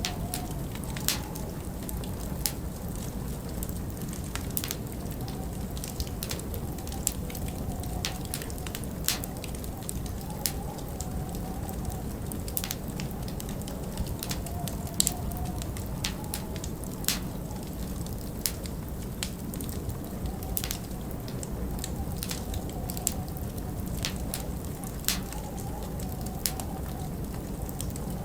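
Wood fire crackling, with irregular sharp pops several times a second over a steady low rumble, mixed with a continuous winter storm wind.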